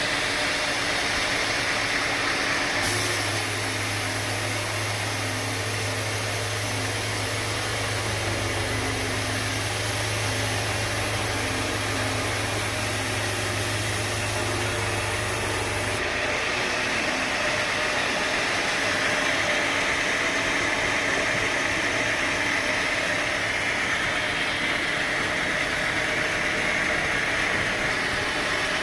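Sawmill machinery running steadily, a continuous mechanical noise. About 3 seconds in a low hum joins it, and about 16 seconds in the hum stops and the sound shifts abruptly.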